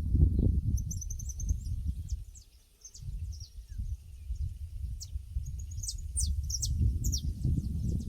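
Small birds chirping in quick, high notes and short trills across a pasture, over a loud low rumble that fades out briefly about two and a half seconds in and then returns.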